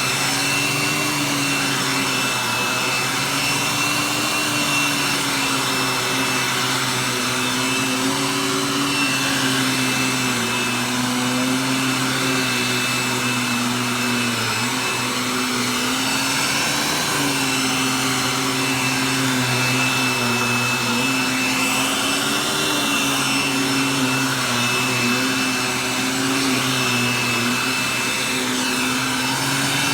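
Hoover vacuum cleaner running continuously, a steady motor hum with a thin high whine, its pitch dipping and rising slightly as the load on the motor changes.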